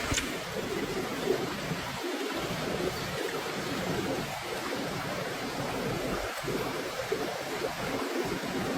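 Steady rushing noise of sea surf, with a sharp click just after the start and a couple of small ticks later.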